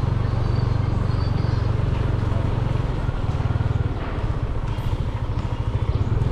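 Small motorcycle engine running at low speed as it is ridden, with a steady low pulsing note that eases off about four seconds in and picks up again near the end.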